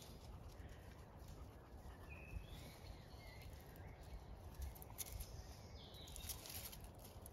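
Quiet outdoor ambience: a few short, high bird chirps over a low rumble of wind, with a couple of soft rustles about five and six seconds in.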